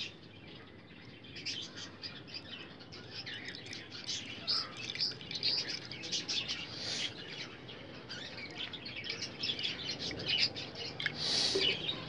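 Small birds chirping and chattering without a break: many short, high calls overlapping.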